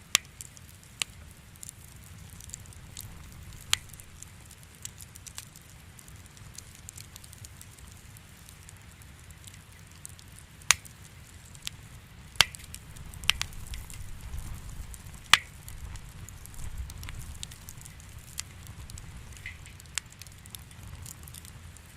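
Wood fire crackling in a fireplace: irregular sharp pops and snaps over a low, steady rumble of flames, with a handful of louder pops spread through.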